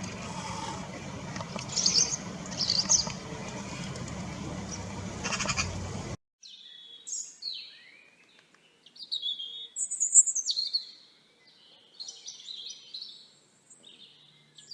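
Garden ambience with a steady hiss and a few short bird chirps; about six seconds in, it cuts suddenly to a clean recording of songbirds chirping and warbling in quick, separate phrases.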